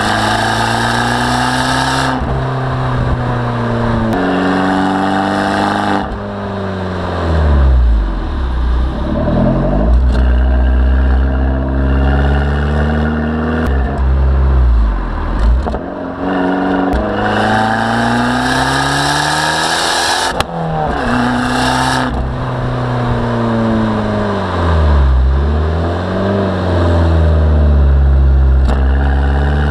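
Abarth 595 Turismo's turbocharged 1.4-litre four-cylinder engine accelerating hard, its pitch climbing and then dropping several times as it is revved and run through the gears. Bursts of hiss come in between.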